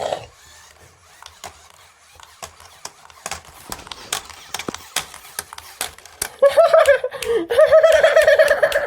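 Plastic toy figures clicking and tapping as they are handled. About six seconds in, a high-pitched, wavering vocal sound starts and continues: a person laughing or giggling in a character voice.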